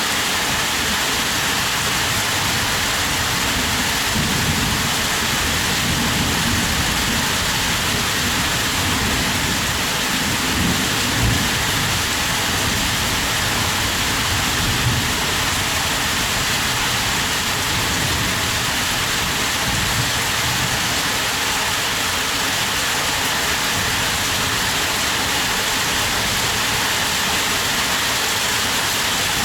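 Heavy rain falling steadily, a constant dense hiss, with an uneven low rumble underneath.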